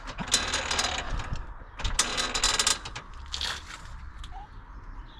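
Car jacking gear ratcheting in three bursts of rapid metallic clicking, the longest about two seconds in, as the car is lifted on its jack points.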